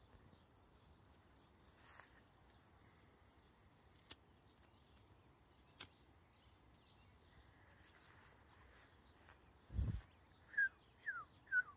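Songbirds calling: a run of short, high, thin chirps about two or three a second, then three louder down-slurred whistled notes near the end. About ten seconds in there is a brief low thump.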